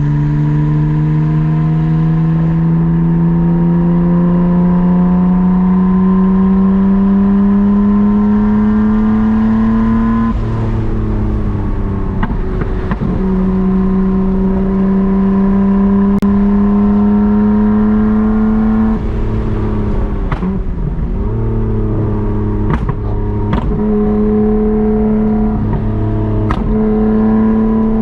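Nissan Skyline R32 GT-R's twin-turbo RB26 straight-six with a Group A-style exhaust, heard from inside the cabin, pulling steadily with its drone slowly rising in pitch. The note drops at gear changes about ten and nineteen seconds in, then climbs again and wavers near the end.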